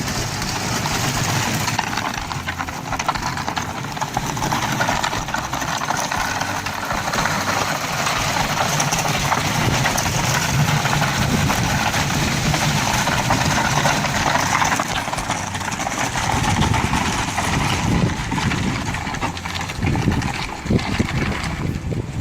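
Small vehicle engine running steadily while it tows a wheeled chicken tractor.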